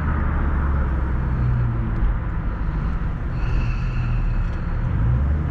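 Supercharged 4.6-litre V8 of a 2003 Mustang Cobra running steadily while driving, its low note shifting slightly a couple of times. A faint high whine rises in the middle. The engine is running strong.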